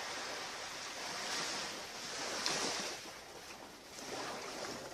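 Surf washing onto a beach: a steady rush of water that swells and eases a few times.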